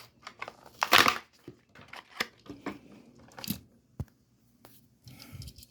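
Hot Wheels blister-card packaging being opened by hand: the plastic blister crackling and the card tearing in irregular bursts, with a sharp click about four seconds in.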